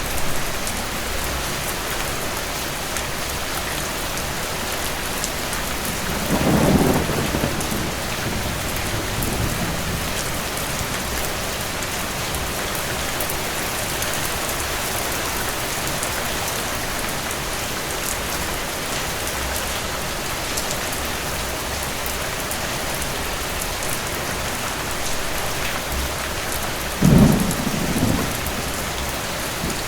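Steady rain falling, with two rolls of distant thunder: one rumble about six seconds in, and a second that starts more suddenly near the end.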